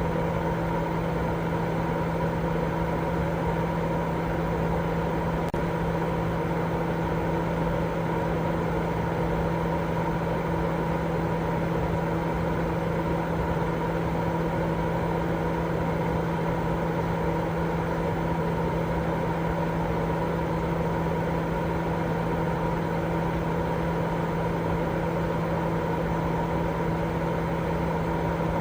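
Steady, unchanging white-noise sleep sound, an even hiss with a constant low hum running through it.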